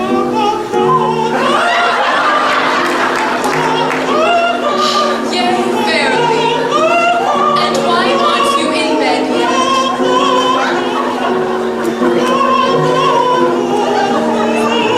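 A high, wavering singing voice with vibrato performing a lullaby over steady instrumental accompaniment.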